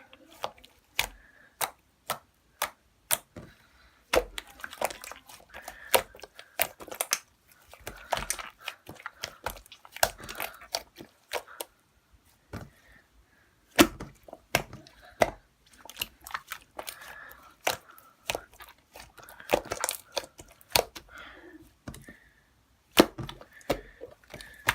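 Slime being squeezed and pressed by hand, giving many sharp, irregular clicks and pops, some in quick clusters, with a few brief pauses.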